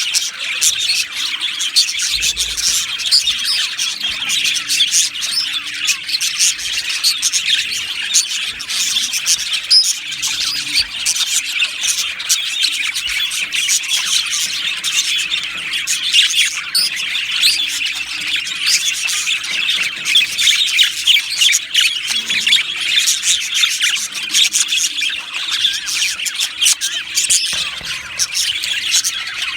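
A flock of budgerigars chattering together: many high, overlapping chirps and warbles running on without a break.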